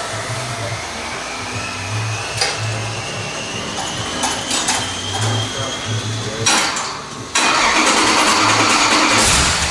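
Bored-and-stroked 426 Hemi V8 on an engine dyno, just after fuel pressure comes up. An uneven low hum and a slowly rising whine lead in, then about seven seconds in the engine fires and runs loud.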